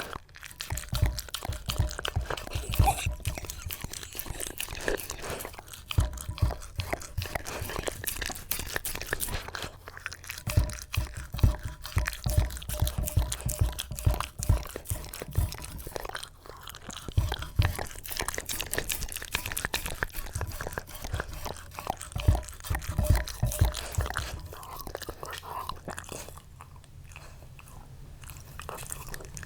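A Shiba Inu crunching and chewing something hard, with dense, irregular crunches that thin out near the end.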